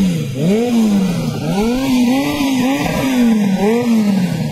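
Motorcycle engine revved in several throttle blips, the pitch climbing and falling back each time.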